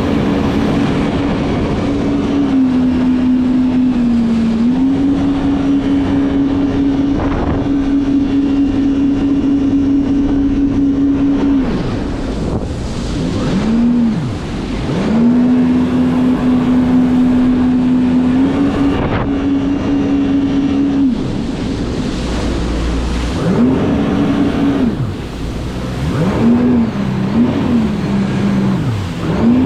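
Jet ski engine running at a steady high pitch, easing off for a moment, then throttling back several times and revving up again in short rises and falls, over a constant rushing noise.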